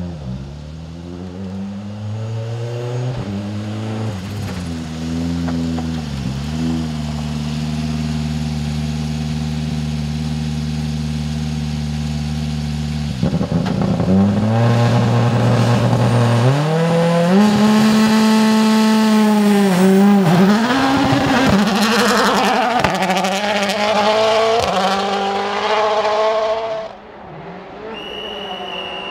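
Toyota Yaris WRC rally car's turbocharged 1.6-litre four-cylinder engine, held at fairly steady revs at first. About halfway through it gets much louder and revs up and down repeatedly through gear changes as the car drives flat out on the stage. The sound drops away suddenly near the end.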